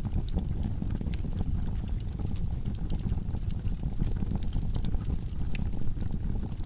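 Wood fire burning in a fireplace: a steady low rumble of flames with many sharp crackles and pops from the burning logs, scattered irregularly throughout.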